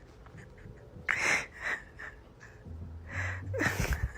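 A dog's sharp, sneeze-like snorts and breaths: a strong one about a second in and another near the end, with softer snuffling between.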